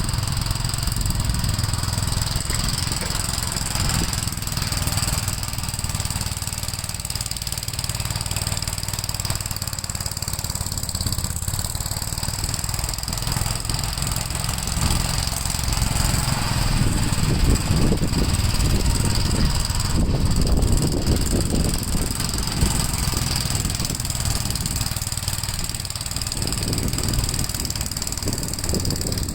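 Gravely L8 walk-behind tractor's single-cylinder engine running steadily while plowing snow, a little louder around the middle.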